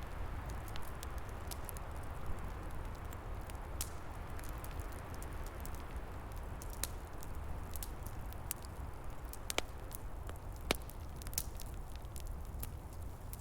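Wood fire crackling, with scattered sharp pops and two louder snaps a little past the middle, over a steady rushing noise of fire and wind with a low rumble.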